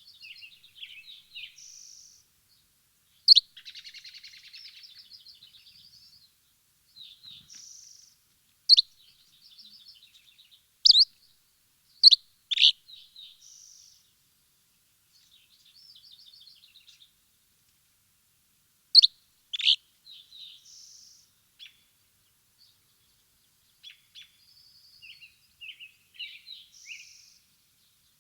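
Small birds chirping: sharp, loud single chirps every few seconds, with softer trills and rattling phrases between them and short spells of silence.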